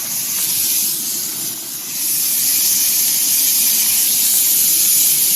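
Ribeye steaks sizzling loudly on grill grates that are running too hot, giving a hard sear. A steady hiss that grows louder about two seconds in.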